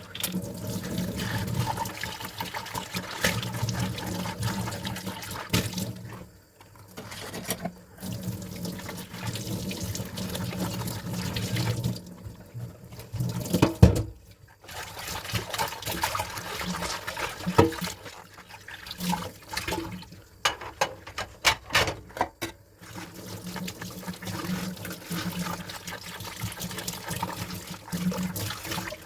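Tap water running into a sink during hand dishwashing, stopping briefly a few times, with dishes clinking and knocking; the loudest knock comes about halfway through, and a quick run of clinks follows a few seconds later.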